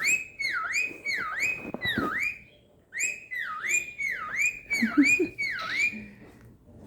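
Cockatiel whistling a repeated swooping note, each one dipping in pitch and rising back, about two a second, with a short break about two and a half seconds in.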